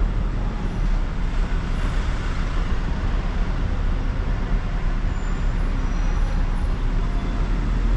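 Steady road noise heard from inside a moving car's cabin: a constant low rumble of engine and tyres with wind noise over it.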